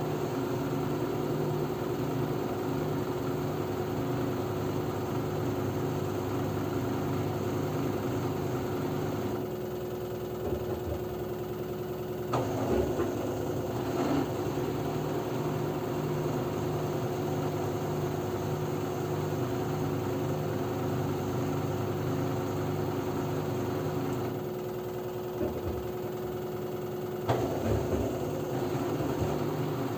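LG F10B9LD front-loading washing machine in its spin cycle, running toward 1000 rpm with a steady whirring hum and a held tone. Twice the hum eases off for about three seconds, then picks back up with a short knock or rattle.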